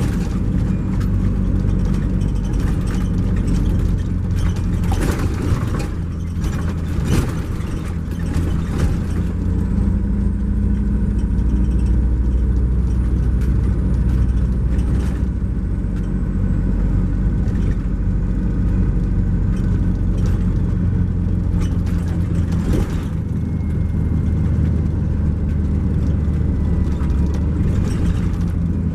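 2012 MCI J4500 coach under way, its Cummins ISX12 inline-six diesel droning steadily through the Allison automatic transmission, heard from inside the coach. A few sharp knocks or rattles come through, about five and seven seconds in and again near twenty-three seconds.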